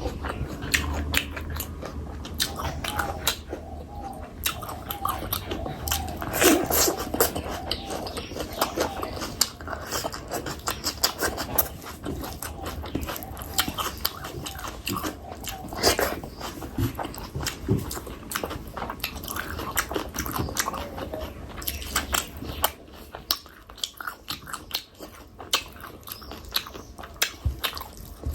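Close-miked chewing and mouth sounds of a person eating curry and rice, with many sharp clicks and smacks each second.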